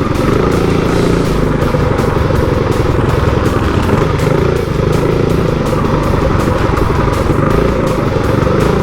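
Motorcycle engine running loudly and steadily.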